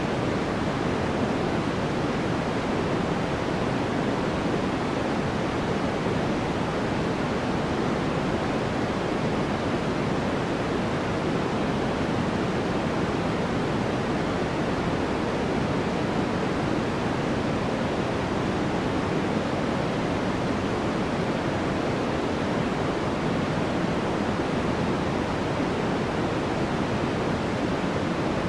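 Steady, unchanging synthetic noise of the kind sold as white noise for sleep, an even hiss weighted toward the lows and mids that fades toward the top.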